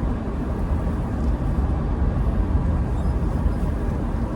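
Steady low rumble of a car's engine and road noise, heard inside the cabin while driving slowly.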